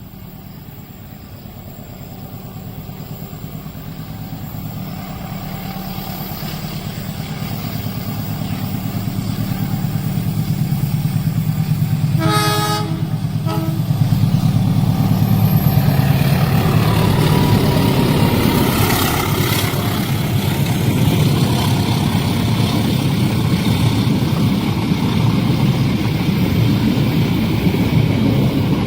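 A train approaches a level crossing and passes: a steady rumble grows louder over the first dozen seconds. About twelve seconds in the locomotive horn sounds twice, a long blast then a short one. The loud rumble and clatter of the train going by follows.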